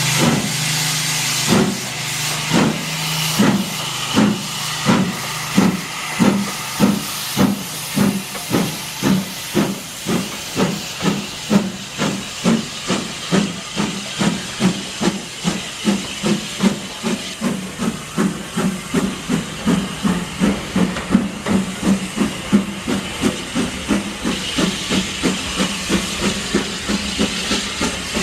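Steam locomotive starting away, its exhaust chuffing in beats that quicken from about one a second to two or three a second, with steam hissing throughout.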